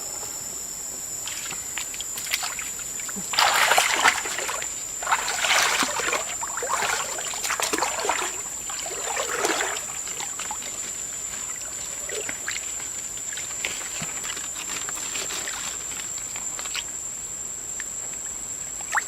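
Water sloshing and splashing in irregular bursts, busiest in the first half, over a steady high-pitched whine.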